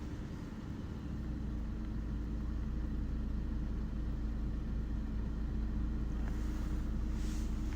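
Steady low engine and road hum inside a car, growing louder about a second in.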